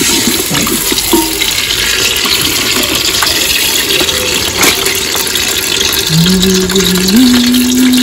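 Tomato paste sizzling as it goes into hot oil and onions in an aluminium cooking pot, with a knock or two of the wooden spoon. A low hummed tone comes in about six seconds in, steps up in pitch and drops back near the end.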